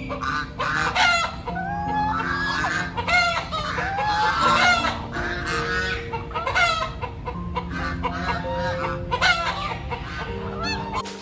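Chickens clucking and calling in quick, repeated short calls, over soft background music with long held notes.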